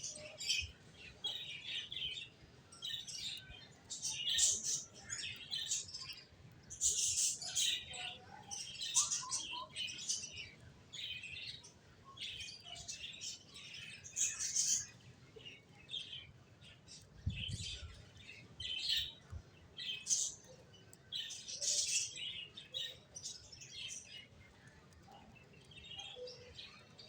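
Finches chirping: many short, high chirps in quick, irregular succession.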